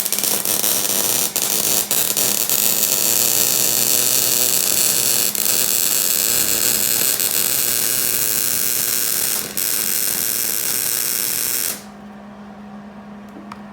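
Hobart Handler 190 gas-shielded MIG welder arc crackling steadily as a bead is laid on a rusty steel exhaust flange, cutting off abruptly near the end. A low steady hum runs underneath.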